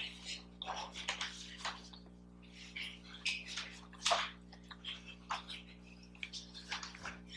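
Close-up chewing of a cookie: irregular, short, wet mouth sounds that come and go.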